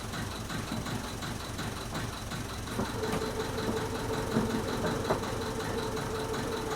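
Engine running at a steady idle with a fast, even low pulsing. About three seconds in a steady whine comes in over it, and there are two sharp knocks later on.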